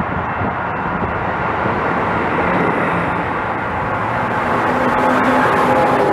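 A train running close by: a steady, loud rumble that grows slightly louder, with faint steady tones coming in about four and a half seconds in.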